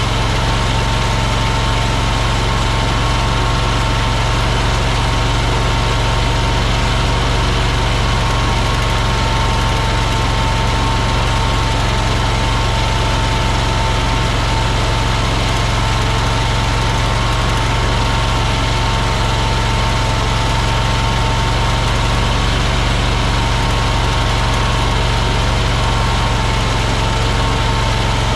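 AGT LRT23 mini skid steer (compact track loader) engine running steadily, with a steady high-pitched whine over the engine note.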